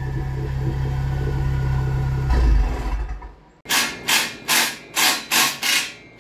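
Ford Focus RS Mk3's turbocharged 2.3-litre four-cylinder idling in track mode through its MBRP exhaust and catless downpipe, with a brief low blip about two seconds in, then the engine cuts out and dies away. After that comes a run of short rasping strokes, about two or three a second.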